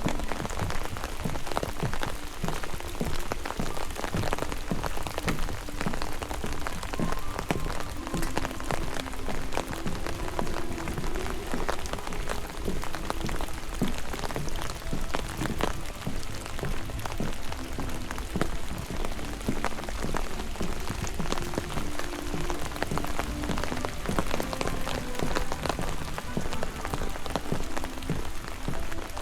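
Steady rain, with dense, irregular drops striking close to the microphone.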